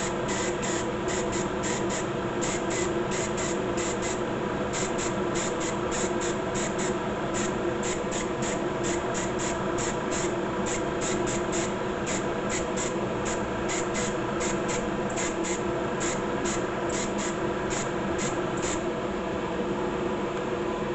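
Clear coat being sprayed onto a plastic model: a steady spraying hiss with a rapid run of light high ticks, about three a second, that stops near the end.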